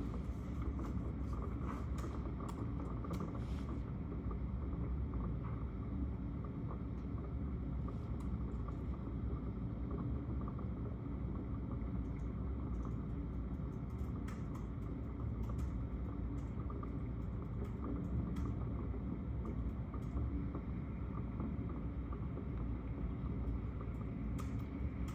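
Steady low rumbling background noise with scattered faint clicks.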